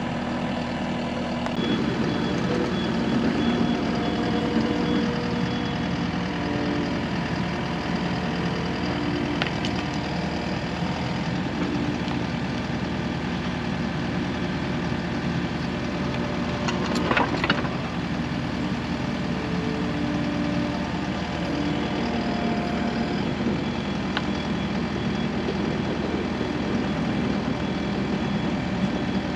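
An engine idling steadily, with a short sharp sound about seventeen seconds in.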